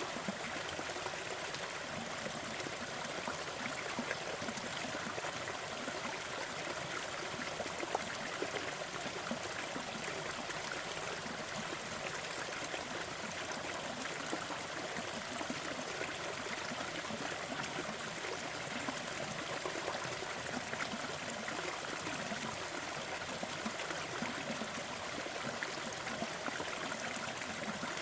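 Waterfall and stream water rushing and splashing steadily, with a fine trickling, gurgling texture and no pauses.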